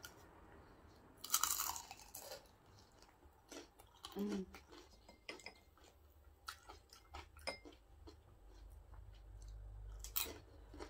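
A person biting into a piece of fried food and chewing it: a loud crunch about a second in, then chewing with small mouth clicks, and another crunch near the end.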